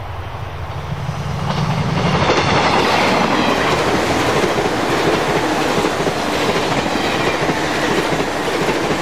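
A 485-series limited express electric train passing close by at speed, its wheels clattering over the rail joints. It approaches over the first second or so and is loud from about a second and a half in as the cars rush past.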